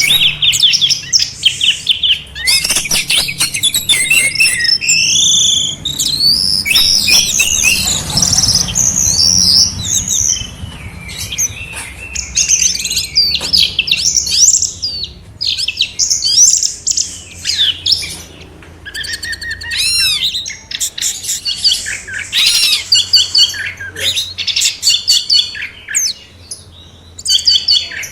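Songbirds singing a continuous, fast and varied song of high whistles, slurred notes, chirps and trills, with short pauses now and then.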